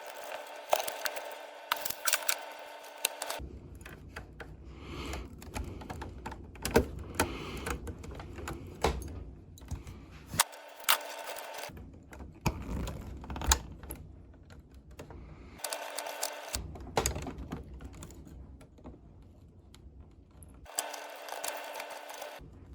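Irregular sharp clicks and taps of small tools on metal while wires are desoldered and resoldered on a tube tester's 7-pin miniature tube socket. In some stretches a steady hum runs underneath, and it cuts in and out abruptly.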